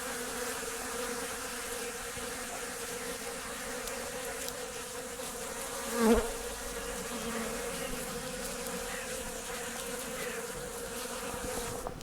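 Many honeybees buzzing steadily as they forage for seed dust at a bird feeder, with one bee passing close and louder about six seconds in.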